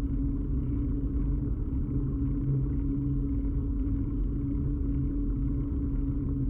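Steady low rumble with a constant hum from a bicycle ride, picked up by a camera fixed to the bike: road and tyre vibration carried through the mount.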